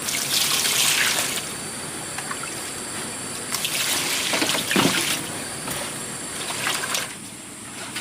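Water pouring and splashing in three bursts over a steady background hiss.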